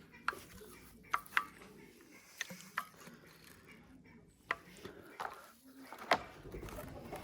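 Irregular light clicks and knocks, about eight short sharp ones spread unevenly, over a faint low background.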